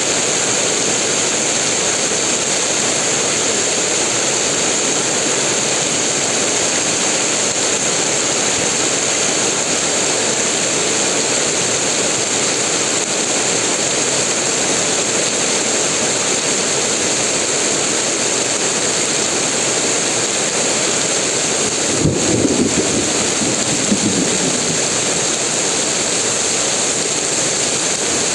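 Heavy rain pouring down in a dense, steady hiss, with a brief low rumble about three-quarters of the way through.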